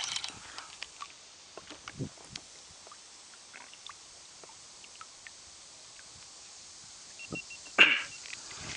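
Light clicks and knocks from the kayak and fishing tackle while a hooked fish is played, over a quiet background. There is a sharper knock about two seconds in and a brief, louder noise near the end.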